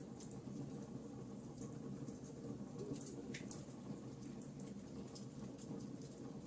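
Wood fire burning in a fireplace: a steady low rush of flame with frequent small, sharp crackles and pops, a couple of louder ones about three seconds in.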